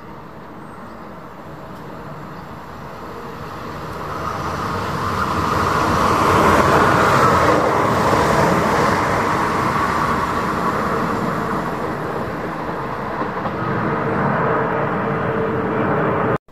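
Passenger train running through a station at speed without stopping: a rumble and rush of wheels on rails that builds as it approaches, is loudest as the coaches pass, then eases off as it draws away, and cuts off suddenly near the end.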